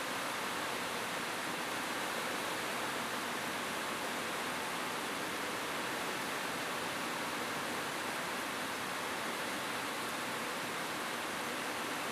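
Steady rain falling on a roof, a dense even hiss with no thunder.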